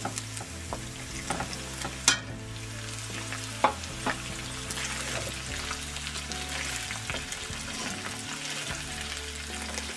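Cubes of boiled pig blood and sliced onions sizzling in hot lard in a frying pan as they are stirred with a wooden spoon, with a few sharp knocks against the pan, the loudest about two seconds in.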